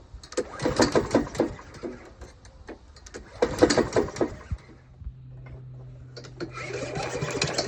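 Honda GVC135 mower engine being pull-cranked twice, each pull a quick run of mechanical knocks: a knocking noise that has newly started in the engine. About four and a half seconds in, a steady low hum sets in and grows louder near the end, the engine running.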